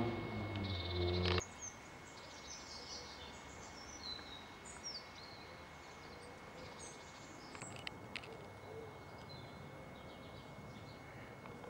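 Background music cuts off about a second and a half in, leaving outdoor background noise with small birds chirping now and then.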